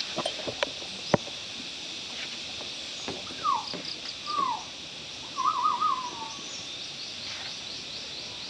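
A bird calling three times: two short falling whistles, then a longer warbling call, over a steady high hiss. A few light clicks come in the first second.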